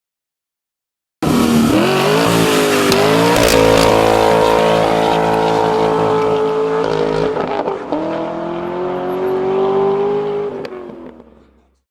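A car engine accelerating hard under load, its pitch climbing and then holding high. Around seven seconds in the pitch drops as at a gear change, then climbs again before the sound fades away.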